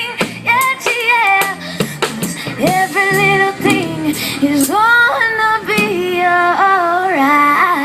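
A woman singing over instrumental backing, with sharp percussive hits in the first couple of seconds, then long held notes that slide between pitches.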